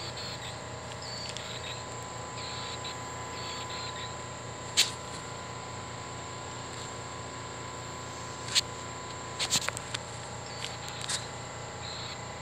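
An Audubon plush killdeer's recorded call playing through the toy's small speaker: a run of short, high calls over the first few seconds. Later come several sharp clicks, the loudest about five and about eight and a half seconds in.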